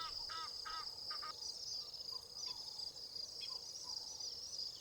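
Dawn bird chorus over a steady high-pitched insect trill: one bird repeats a call about three times a second, stopping a little over a second in, followed by scattered short chirps from other birds.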